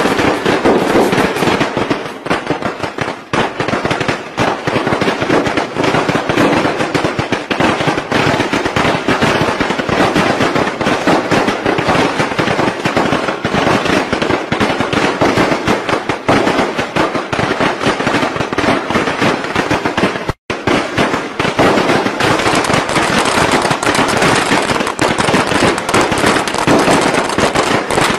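Strings of traditional Vietnamese Tết firecrackers going off in a dense, continuous rattle of rapid bangs. It breaks off for an instant about two-thirds of the way through, then carries on.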